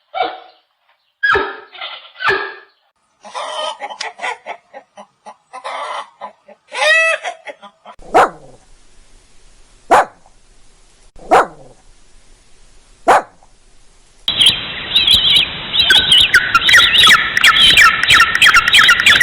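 A run of separate animal calls cut one after another: short calls early on, then about four single dog barks spaced about a second and a half apart, then a flock of birds chirping densely through the last five seconds.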